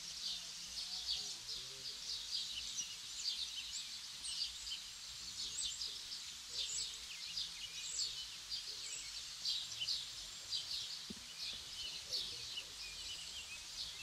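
A chorus of small songbirds chirping: many short, high chirps several times a second, overlapping and unbroken.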